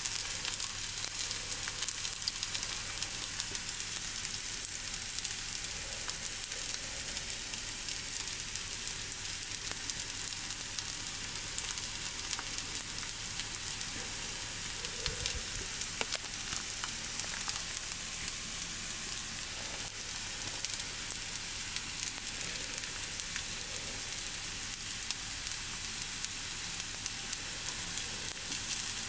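Hot oil sizzling and crackling steadily around breaded potato-salad ham cutlets shallow-frying in a frying pan.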